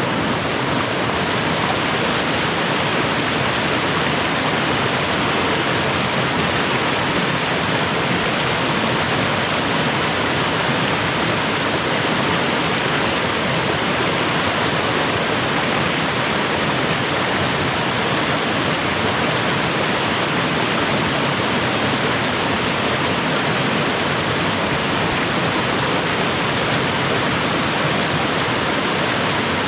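A snowy mountain creek and its small waterfalls rushing steadily, an even, unbroken hiss of falling water.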